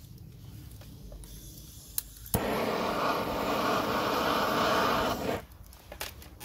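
A gas burner lit with a click, about two seconds in, then running with a loud, steady rushing hiss for about three seconds before it is shut off. The flame is heating a plastic panel to soften it for bending.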